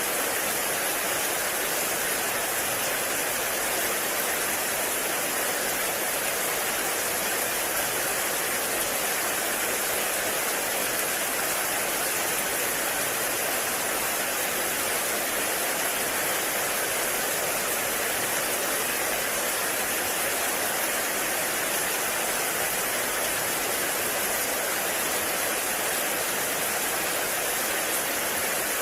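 Heavy rain falling in a forest, a steady hiss with no breaks or single drops standing out.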